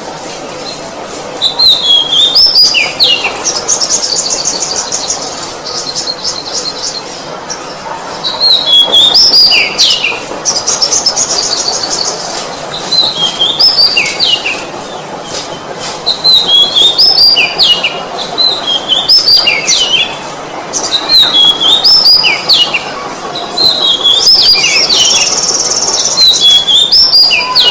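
Oriental magpie-robin (kacer) singing: loud whistled phrases that swoop up and down, repeated every couple of seconds, broken now and then by a fast, high trill.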